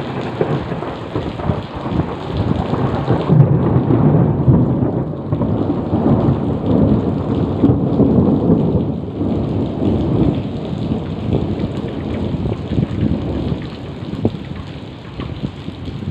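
Heavy rain with a long rolling rumble of thunder that swells about three seconds in and slowly dies away over the next several seconds.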